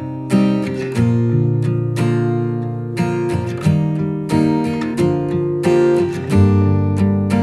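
Background music: an acoustic guitar strumming chords with a steady, unhurried rhythm, a new strum about every second.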